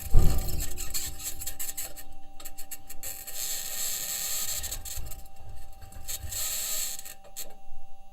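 Harsh scraping and rasping noise in uneven bouts, over a faint steady tone, played as a recorded sound from Mars.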